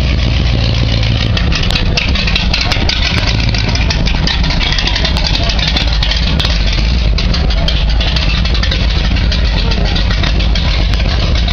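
Oldsmobile Cutlass's 455 V8 idling steadily.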